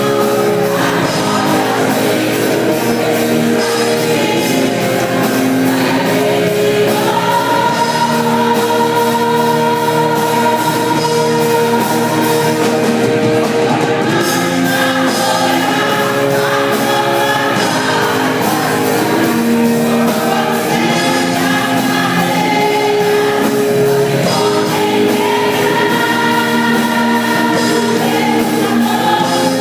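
Gospel music with a group of voices singing over a band with a steady beat.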